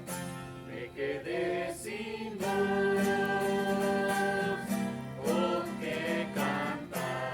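Hymn sung with strummed acoustic guitar accompaniment, with one long held note in the middle.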